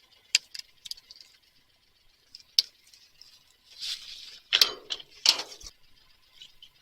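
Scattered sharp clicks and taps, a short rushing hiss about four seconds in, then a few louder knocks and scrapes, from handling the diesel tank's fill cap and a bottle of anti-gel fuel additive.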